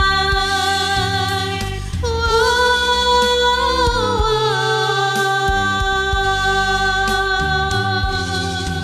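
Karaoke backing track with a sung voice holding long drawn-out notes, stepping up in pitch about two seconds in and easing back down.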